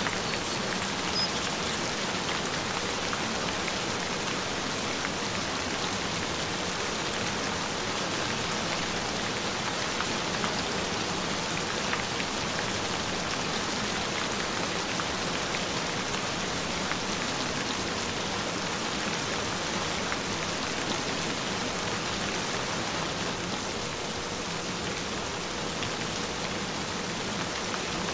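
Gentle rain falling steadily, an even wash of drops with no change in strength.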